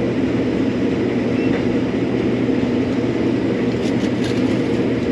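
Combine harvester's engine and machinery running steadily, heard from inside the cab as a constant drone.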